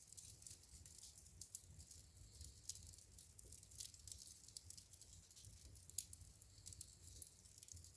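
Wood burning in a fireplace: faint crackling, with frequent small sharp pops over a soft low rumble, the loudest pop about six seconds in.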